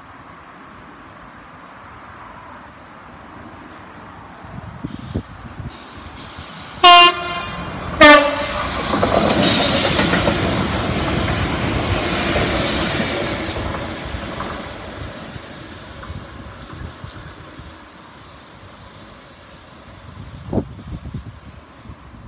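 Two GBRf Class 66 diesel locomotives, with their twelve-cylinder EMD two-stroke engines, head a railhead treatment train through the station. The horn gives two short blasts about a second apart, the second lower in pitch. The locomotives and tank wagons then rumble and clatter past at speed, and the sound slowly fades as the train draws away.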